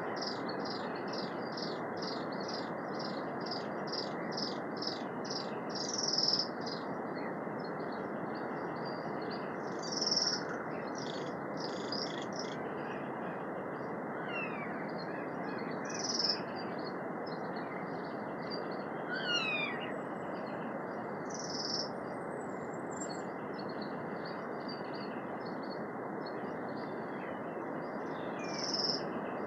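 Birds calling over a steady rushing background noise. A quick run of repeated chirps comes first, then louder single calls every few seconds, with a couple of quick falling whistles about two-thirds of the way through.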